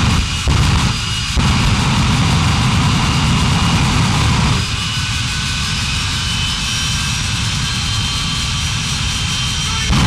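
Monster truck engine running loud and rough, in short bursts for the first second or so, then steadily.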